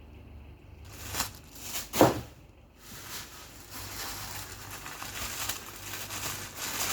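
Plastic bags of frozen meat crinkling and rustling as they are handled and sorted out of a freezer, with a single knock about two seconds in as something is set down.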